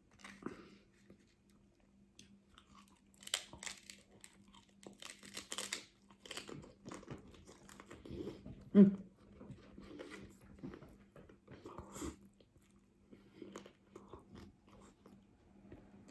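Crunchy taco shell being bitten and chewed close to the microphone, with many irregular crunches over a faint steady hum. About nine seconds in there is one brief, louder low sound.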